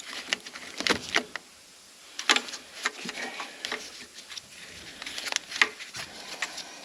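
Irregular clicks and knocks of hand tools and engine parts being handled during engine teardown, with the sharpest knocks about two seconds and five and a half seconds in.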